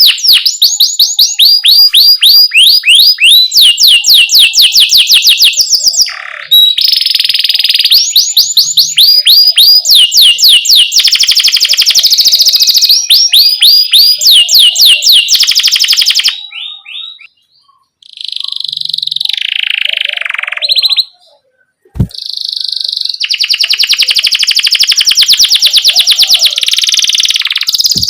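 Domestic canary singing loudly: fast series of repeated sweeping chirps run together into rolling trills, broken by two short pauses about two-thirds of the way through. A single sharp click sounds just after the second pause.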